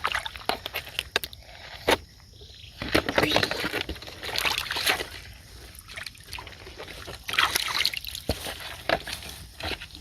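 Shallow water sloshing and splashing in irregular bursts, with a few sharp clicks between them.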